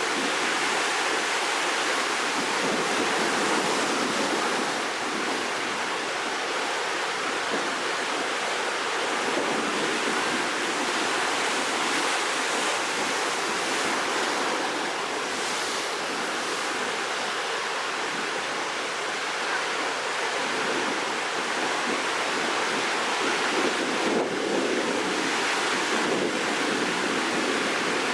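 Rough sea surf, churned up ahead of a typhoon, washing in a steady, continuous rush with no distinct single crashes.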